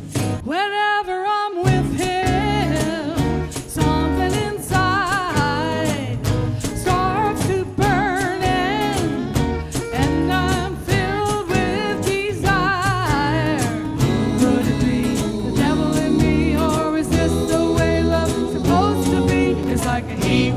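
A band playing a 60s/70s-style song, with a steady drum beat, bass and a wavering lead melody with vibrato, kicking in about a second and a half in.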